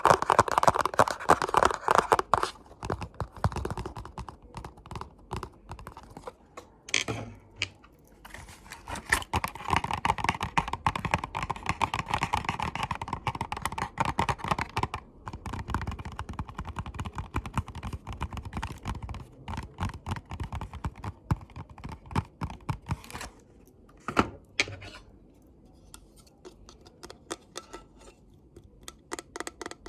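ASMR tapping and scratching close to the microphone: a busy run of small rapid clicks and scrapes. It is loudest at the start and again from about ten to fifteen seconds in, and grows sparser and quieter near the end.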